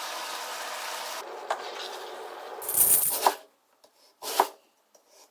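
Chicken and mushrooms sizzling in a frying pan for about a second, then a brief louder clatter around three seconds in, followed by a couple of crisp knife strokes slicing raw lotus root against a cutting board.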